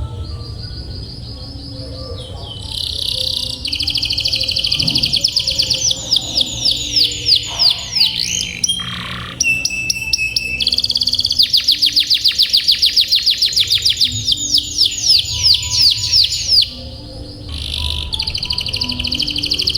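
Domestic canary singing long, fast rolling trills, rapid repeated notes strung into extended rolls, with a brief break about halfway through and another near the end.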